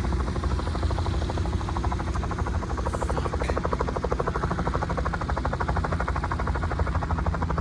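A nearby helicopter running: a steady, rapid chop of the rotor blades over the drone of its engine.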